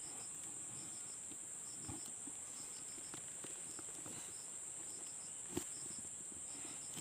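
Insects calling: a steady, high continuous drone with short chirps repeating in twos and threes over it. A single sharp click about five and a half seconds in.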